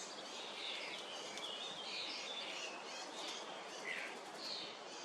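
Small birds chirping and calling: a string of short, high chirps, some overlapping, over a steady outdoor hiss.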